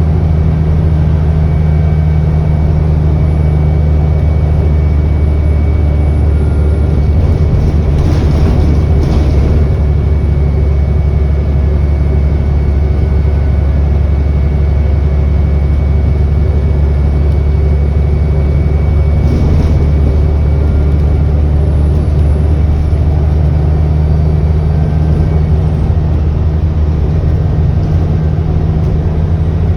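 ADL Enviro400 double-decker bus engine running steadily under way, heard from inside the bus, with a thin high turbo whine over the low engine drone. Two brief hisses come about 8 and 19 seconds in.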